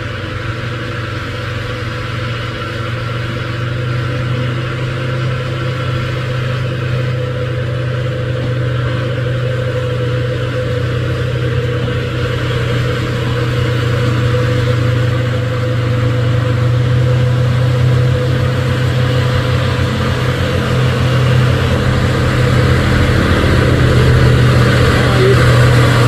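Diesel engine of a heavily loaded truck labouring up a steep climb, running at a steady pitch and growing steadily louder as it draws near.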